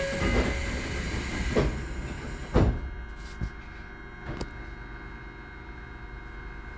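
A Tobu 20400-series electric train just after its doors close: a loud hiss of compressed air that stops with a heavy knock about two and a half seconds in. After that comes a quieter steady hum from the train, with a few small clicks.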